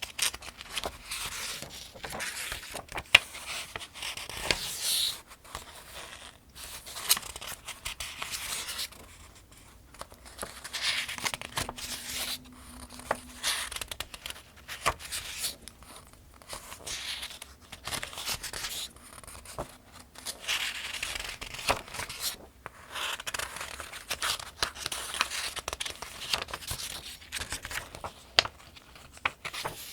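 Pages of the 2025 Farmers' Almanac being turned one after another at a steady pace. Each turn is a papery swish with small crisp snaps, coming every second or two.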